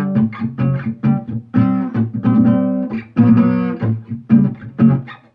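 Guitar being played: a quick run of plucked notes, each with a sharp attack.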